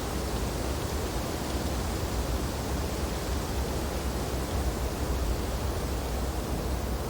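Wind blowing through tree branches in a snowstorm: a steady, even rushing with a deep low rumble underneath.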